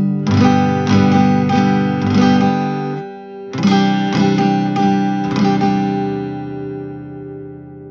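Acoustic guitar played with a double nylon pick tied to the index finger plus bare fingers (hybrid picking): a run of strummed and picked chord strokes, a brief pause about three seconds in, more strokes, then a final chord left ringing and fading.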